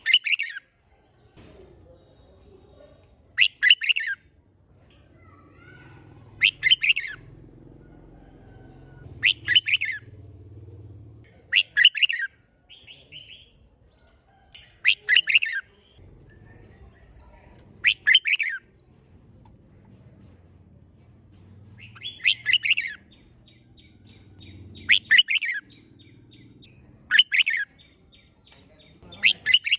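Red-whiskered bulbul singing short, loud, chirpy phrases, one every two to three seconds, about ten in all.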